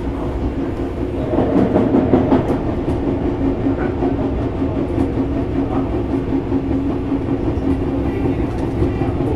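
Tobu 6050 series electric train running, heard from inside the car: a steady hum over a low rumble, with scattered sharp clicks from the wheels over rail joints. It grows louder and rougher for a second or so, about a second and a half in.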